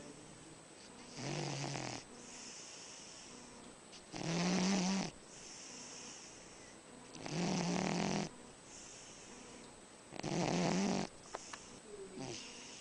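A dog snoring in deep sleep: four loud, buzzing snores about every three seconds, with softer breathy exhales between them.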